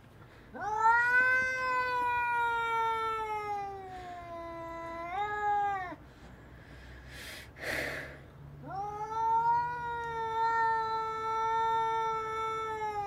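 A cat yowling: two long, drawn-out calls of several seconds each. The first sags slowly in pitch, then steps up briefly near its end. A short breathy noise comes between the calls, and the second call falls away at the end.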